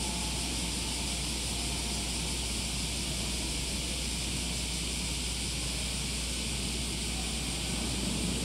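500 series Shinkansen heard at a distance as it pulls away, a steady rushing hiss with no rise or fall.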